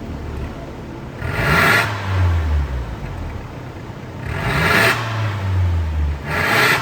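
Mercedes-Benz CLA250's M270 turbocharged four-cylinder revved three times through an MS-R valved catback exhaust. Each throttle blip rises and falls quickly, with the engine settling back to idle in between.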